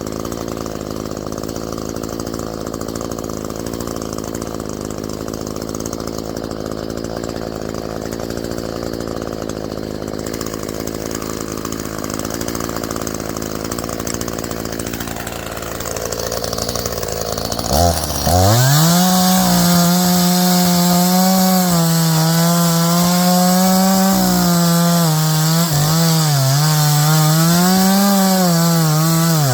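Echo two-stroke chainsaw idling, then opened up to full throttle about 18 seconds in and cutting wood, its high engine note dipping and recovering as the chain bites into the log.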